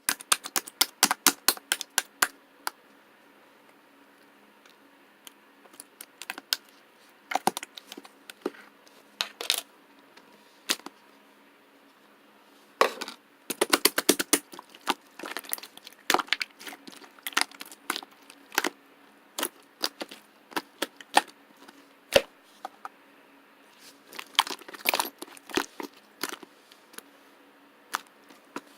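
Thick, chewy white marbled slime being squeezed and pressed, giving off quick runs of sharp clicks and pops. The runs come in bunches with quiet pauses between them.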